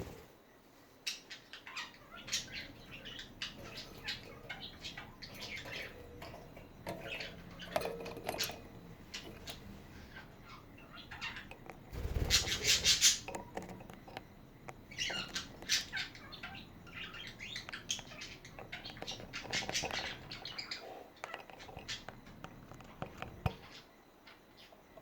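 Pet budgerigars chattering, with many short chirps and warbles in quick succession and a louder, harsher burst about halfway through.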